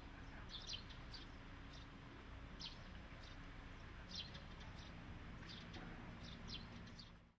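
Small birds chirping in short, high chirps, scattered irregularly, over a faint steady low hum. It all fades out near the end.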